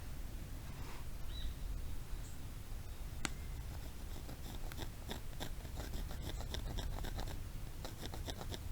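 Knife carving wood: a quick series of short scraping cuts in the second half, after a single sharp click about three seconds in.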